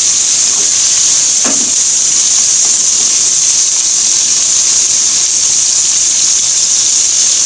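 Pork belly and vegetables sizzling in a hot frying pan as they are stir-fried: a loud, steady, high-pitched hiss.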